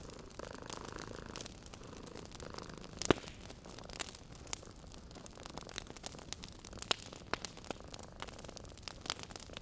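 Wood fire crackling, with irregular sharp pops and snaps, the loudest about three seconds in, over a cat's soft steady purring.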